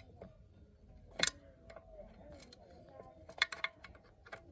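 Small engine parts and hand tools being handled: a few sharp clicks, the loudest about a second in and two quick ones a little after three seconds, over faint voices.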